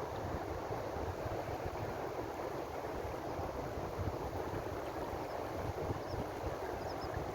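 Ocean surf washing steadily, with an uneven low rumble of wind buffeting the microphone.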